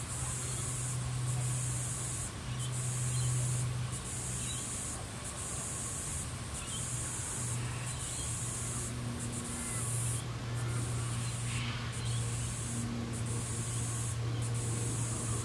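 Evening insect chorus in the Australian bush: a high, hissing drone that breaks off briefly every second or so. Under it runs a steady low hum, with a few faint bird chirps.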